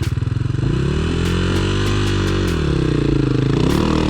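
Dirt bike engine revving up and down under load as it climbs over rocks, with sharp clicks and knocks. The revs rise about half a second in, drop off past the middle and pick up again near the end.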